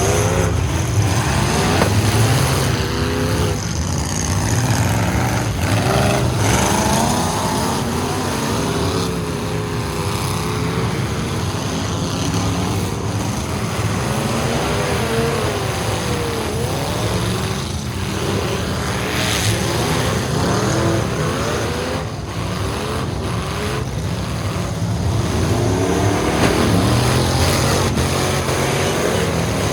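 Several full-size truck engines revving in a demolition derby, their pitch repeatedly rising and falling over a steady low rumble.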